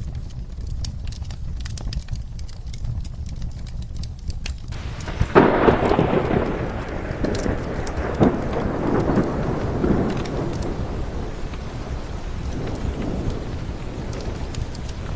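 Rain with a fire crackling in small sharp pops, then a thunderclap about five seconds in that rolls on and slowly fades over several seconds.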